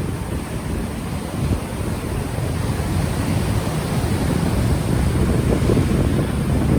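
Gentle ocean waves washing in, overlaid by wind buffeting an unshielded microphone as a heavy, fluctuating low rumble. The noise grows a little louder about halfway through.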